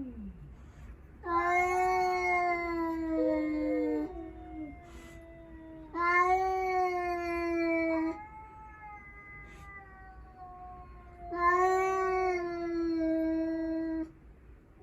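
Cats yowling in a territorial standoff with a stray: three loud, long, drawn-out yowls of two to three seconds each, with quieter, lower moaning calls between them.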